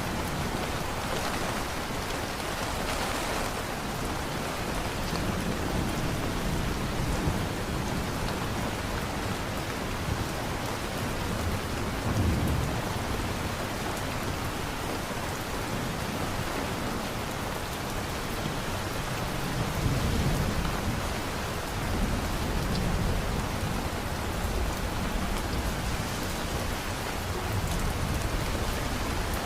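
Steady heavy rain falling in a thunderstorm, with low rumbles of thunder swelling about 12 seconds in and again around 20 seconds in.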